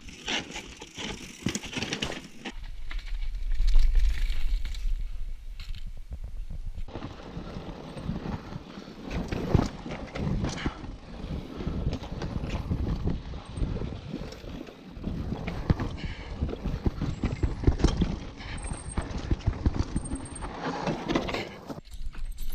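Mountain bike clattering and rattling over a rough, rocky trail in a dense run of irregular knocks and clicks. A low wind rumble on the microphone rises about two seconds in and drops out about seven seconds in.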